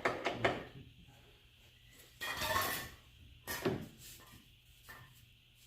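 Workshop handling noises: a few sharp clunks of metal parts and tools and a brief scrape about two seconds in.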